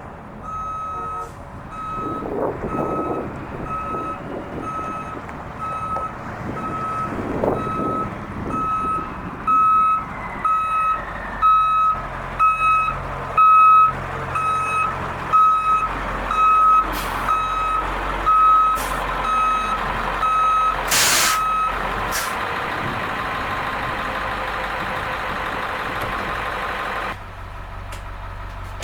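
A school bus's reverse alarm beeps steadily, about one beep every three-quarters of a second, over the bus's running diesel. The beeping stops about 22 seconds in, and a hiss follows for several seconds.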